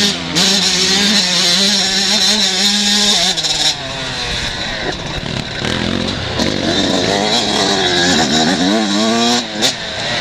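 Several motocross bikes racing, their engines revving hard and dropping repeatedly as they shift and brake, so the overlapping engine notes keep rising and falling in pitch.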